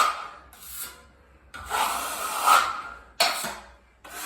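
Drywall knife scraping joint compound over fiberglass tape on a drywall patch, in several separate strokes, the longest about halfway through.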